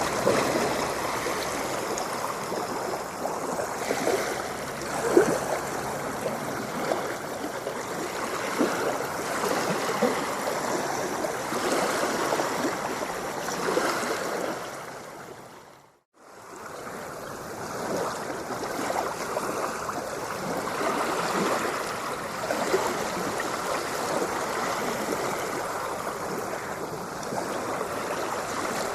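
Ocean water washing and splashing against the shore, with gurgling streaks and no breaking boom. About halfway through, the sound fades briefly to silence and then fades back in.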